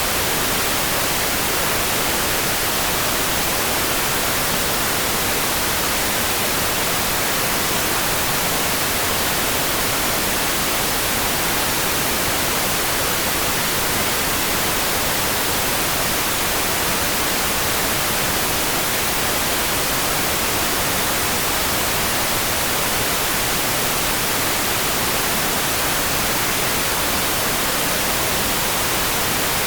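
Steady rain: an even, unbroken hiss with no single drops or drips standing out, and no change in strength.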